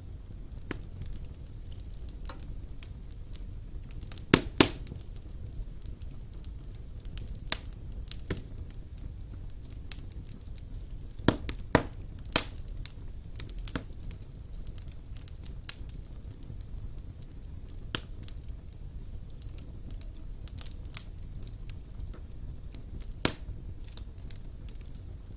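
Wood fire burning in a fireplace: a steady low rumble of flames with irregular sharp crackles and pops, loudest in a few pairs of snaps.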